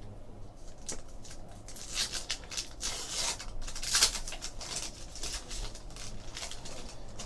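Trading cards being handled and flipped through by hand: a run of quick, light flicks and rubs of card against card, busiest from about two to four and a half seconds in.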